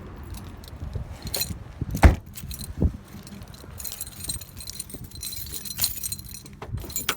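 Small metal items jingling and clinking as they are handled, with two solid thumps about two and three seconds in.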